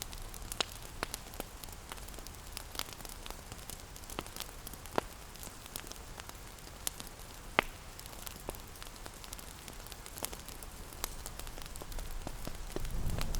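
Wood fire crackling with irregular sharp pops, the loudest about seven and a half seconds in, over a steady hiss of rain. Near the end a low rumble swells up underneath.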